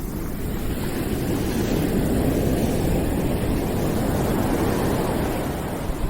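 Steady rushing background noise, heavy and low, swelling in the middle and easing toward the end, like surf or wind.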